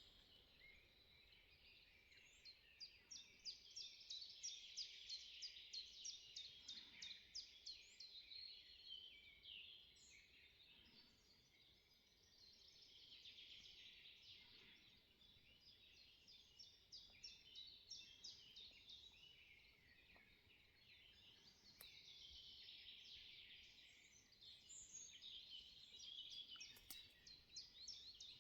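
Faint dawn chorus of several woodland songbirds singing at once. Quick runs of repeated high notes and trills overlap, swelling and easing in waves.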